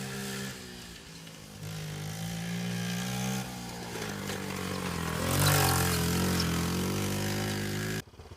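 Small Honda minibike engine running under riding, its pitch rising and falling as the throttle is opened and closed. It cuts off suddenly near the end.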